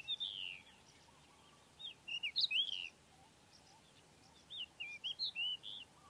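A songbird singing: quick phrases of short whistled notes, in three bursts about two seconds apart, over a faint steady background hiss.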